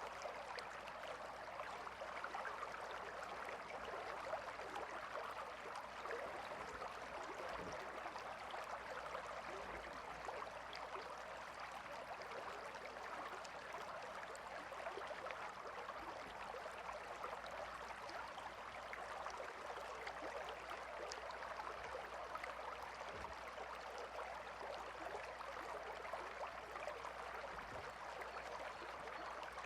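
A calm river flowing steadily, an even stream-like rush and babble of water with no breaks.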